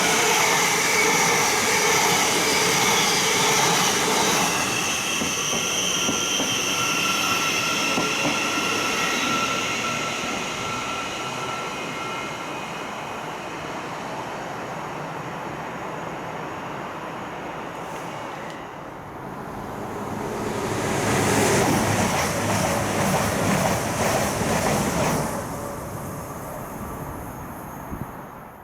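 Trains passing through a station: a loud rush of wheels on rail with several steady high-pitched tones that fade away over the first ten seconds or so, then a second loud rush about twenty seconds in.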